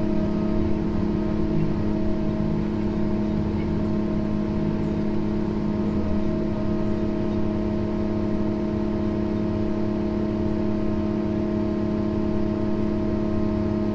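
Heavy diesel engine running steadily at constant speed, a loud even drone that holds one pitch throughout.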